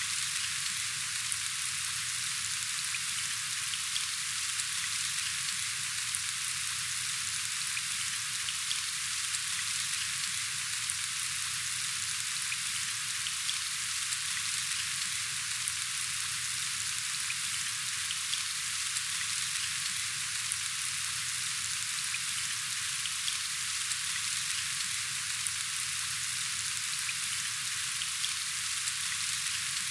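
Steady rain falling: an even hiss flecked with many small drop ticks.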